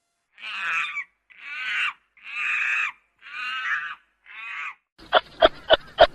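An animal calling five times, each call about half a second long with short gaps between, then from about five seconds in a quick series of short, sharp yaps, about three a second.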